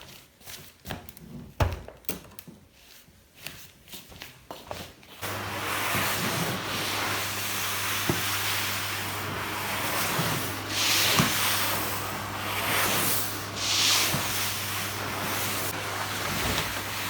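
Light clicks and handling noises, then about five seconds in an electric appliance switches on and runs steadily with a low hum under a hiss that swells twice.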